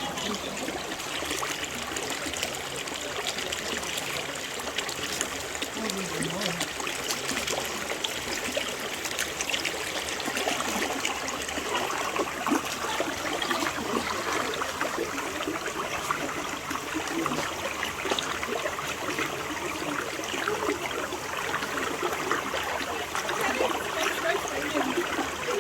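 Steady rush and splash of falling and running water from a waterfall.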